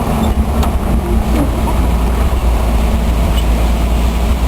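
Car driving along: a loud, steady low rumble of engine and road noise.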